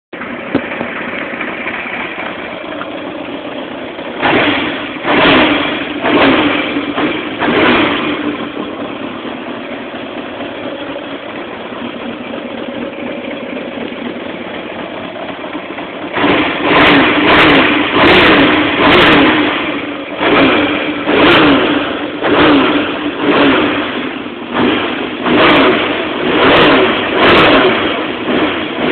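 Freshly rebuilt 1986 Yamaha XJ600's air-cooled inline-four engine idling steadily, revved four times a few seconds in, then idling again before a long run of quick throttle blips, about one a second, through the second half. A test run after a full rebuild, the engine running smoothly.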